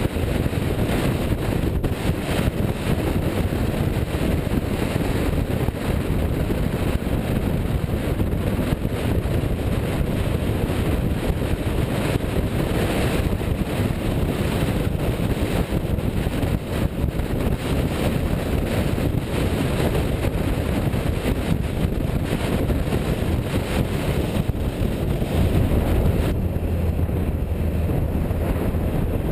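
A car running, heavily overlaid with wind buffeting the microphone. About three-quarters of the way through, a deeper steady engine hum grows louder.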